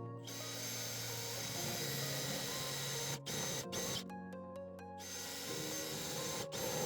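Cordless drill running at speed into the car's sheet steel, drilling out spot welds, in spells with short stops and a pause of about a second some four seconds in. Background music underneath.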